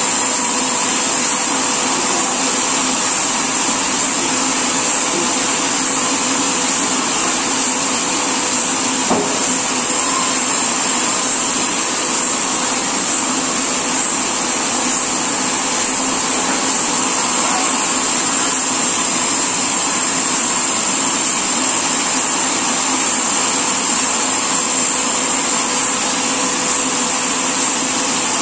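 Sawmill machinery running steadily, a loud even mechanical noise with a constant high whine and a steady hum underneath.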